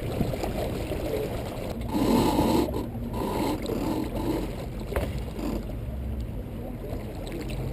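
Wind and water noise aboard a small sailboat under way in strong wind: a steady low rushing, louder for a moment about two seconds in, with a single sharp click about five seconds in.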